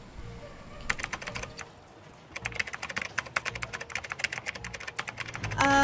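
Typing on a laptop keyboard: a short run of keystrokes about a second in, then a longer, quick, steady run of key clicks from about two seconds in.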